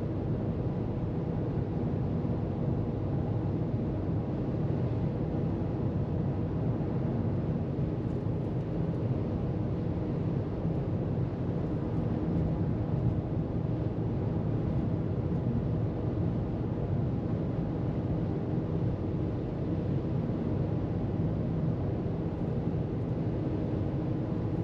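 A car cruising at freeway speed, with a steady low rumble of tyres on the road and a continuous drone from the engine.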